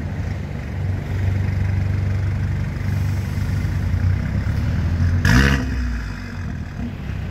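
Mercedes-AMG A45's 2.0-litre turbocharged four-cylinder idling steadily with its engine still cold, with one short blip of the throttle about five seconds in.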